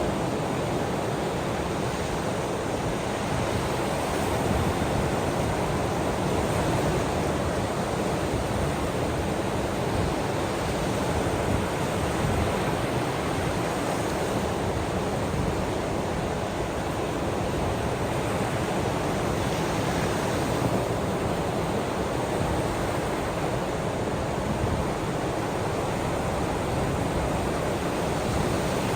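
Ocean waves washing on the shore as a steady, unbroken rush of surf with no distinct breaks.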